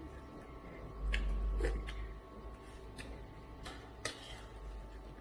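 Eating sounds: a handful of light, separate clicks and taps of a utensil on a dish, with a low bump a little after a second in, over a faint steady hum.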